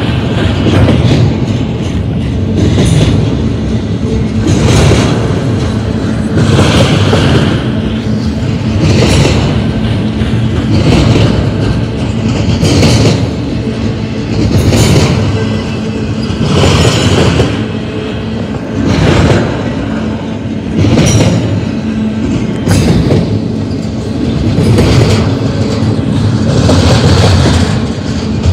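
Double-stack intermodal well cars of a container train rolling past, steel wheels running on the rails, the sound swelling about every two seconds as each wheel truck goes by.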